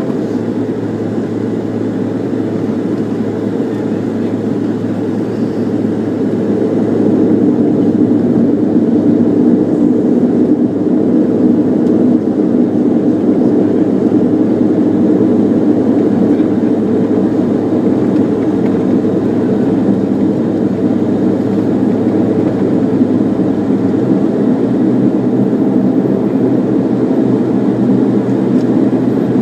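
Bombardier Dash 8 turboprop airliner heard from the passenger cabin: a steady drone of engines and propellers that swells louder about seven seconds in and holds there.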